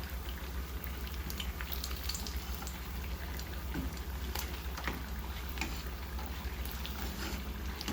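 Spring rolls frying in hot oil: a steady bubbling sizzle with scattered crackles and pops, over a steady low hum.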